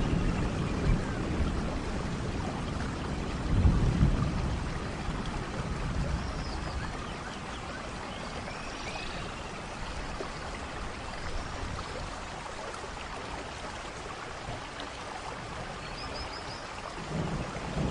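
Steady rainfall in a rainforest thunderstorm, with a low rumble of thunder swelling about three to four seconds in and then fading to a softer, even rain. A few faint high chirps sound over the rain.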